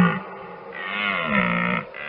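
An animal calling: the tail of one long, pitched call right at the start, then a second call lasting about a second that bends in pitch.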